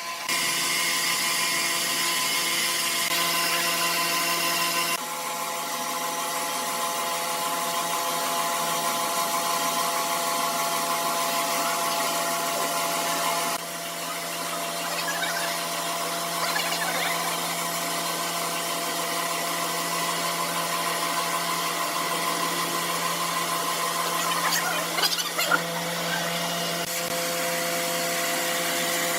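Sawmill saw machinery running steadily with a whine of several held tones over a noisy hiss; the sound shifts abruptly a few times.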